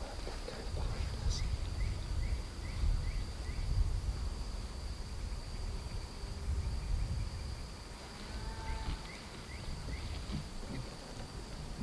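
Outdoor ambience: a steady high insect drone, with a small bird giving a quick series of short rising chirps, once about a second in and again near the end. A low rumble underlies it all and is the loudest part.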